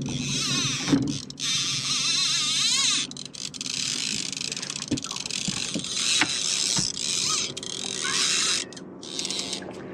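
Trolling reels' line-out clickers ratcheting in bursts as hooked striped bass pull line off, several fish on at once.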